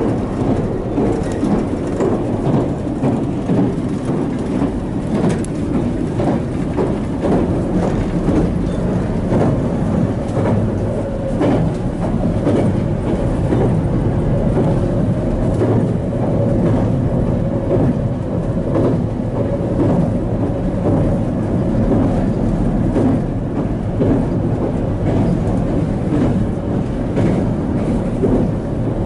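Running noise inside a JR Kyushu 787-series limited express carriage under way: a steady low rumble of wheels on rails, with frequent short clicks and rattles.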